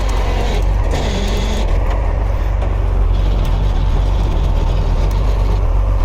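Heavy tow truck's diesel engine running steadily, with mechanical clanking over a continuous low rumble.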